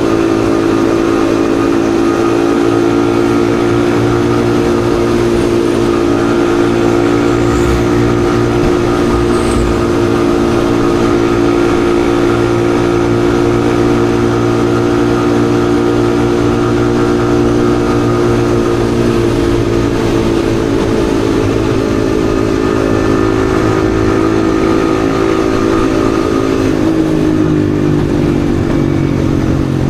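Yamaha XSR155's single-cylinder engine running steadily while the motorcycle is ridden, its pitch easing slightly lower in the second half and changing step about three seconds before the end.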